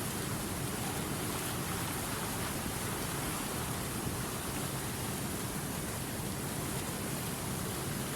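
River water running over rocks, a steady rush with no breaks or changes.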